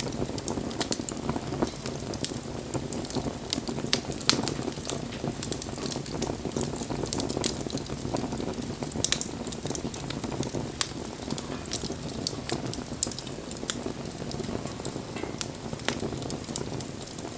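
Wood fire burning, with irregular crackles and sharp pops over a steady rush of the flames; one louder pop about four seconds in.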